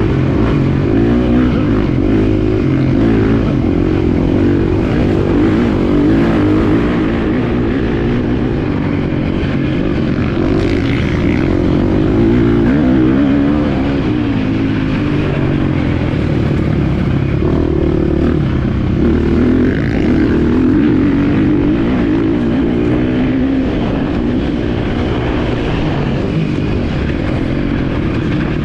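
Motocross bike engine running without a break while riding, its pitch rising and falling again and again with the throttle.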